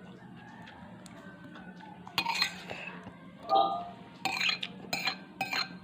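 Metal spoon clinking against a dish while eating: a handful of sharp, ringing clinks, starting about two seconds in and coming more often near the end.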